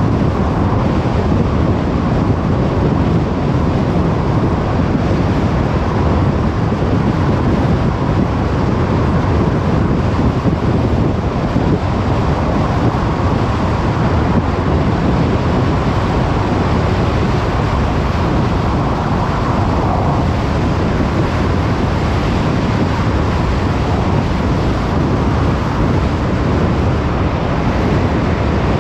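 Car driving steadily on the road: a constant rush of tyre, road and engine noise with no changes.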